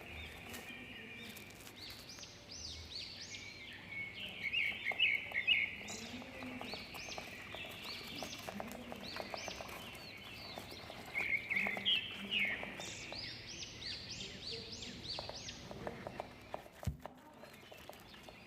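Budgerigars chirping and chattering, many quick high chirps in a busy run, with louder flurries twice.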